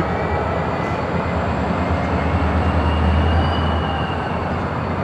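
Diesel switching locomotive running with a steady low rumble that swells slightly about halfway through, as it shoves a cut of cars on a retried kick after a sticky coupler pin failed to release. A faint high whine rises and fades near the middle.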